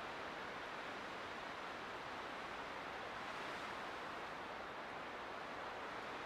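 Light wind blowing as a steady, even hiss, with no gusts or other sounds.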